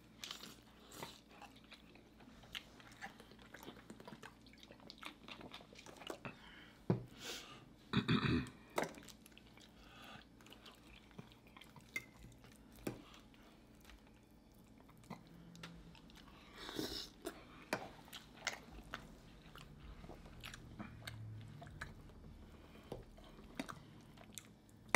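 Close-miked chewing and biting of turkey wings and cheesy spinach casserole, with scattered small clicks of forks against ceramic dishes. The loudest sound is a short burst about eight seconds in.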